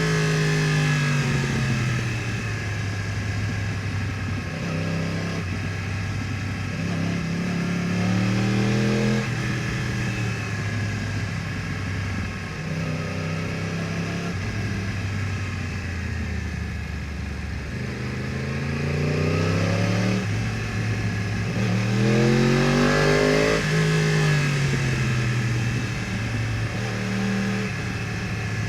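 2015 Yamaha R1's crossplane inline-four engine through a full Akrapovič exhaust, accelerating and easing off in turn. The pitch climbs and drops back several times, with the strongest pull about three-quarters of the way through.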